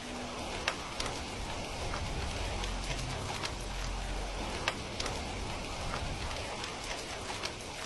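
Steady rain hiss with irregular sharp crackles and pops from a wood fire in a fireplace; the loudest pops come just under a second in and again near the middle.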